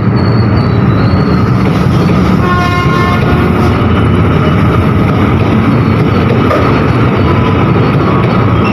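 Train running past with a loud, steady rumble. A short horn toot sounds about two and a half seconds in.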